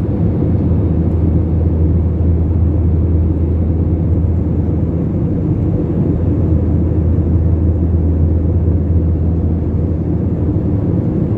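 Steady low rumble of jet engines and airflow heard inside an Airbus A321 airliner's cabin.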